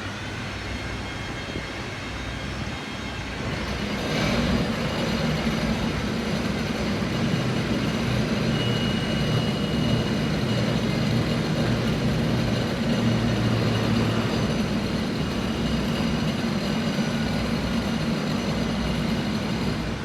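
Steady mechanical hum with low droning tones, growing louder about four seconds in.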